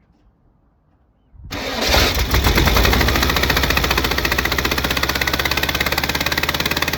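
1970 VW Beetle's air-cooled flat-four engine fires right up about a second and a half in and runs with a fast, even pulsing beat. It is running on three cylinders, with the number-2 spark plug out of its hole.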